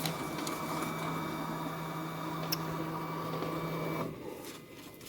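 Inotec Scamax 6x1 production document scanner running as it feeds a batch of pages: a steady machine hum, with a short click about two and a half seconds in. The transport stops about four seconds in.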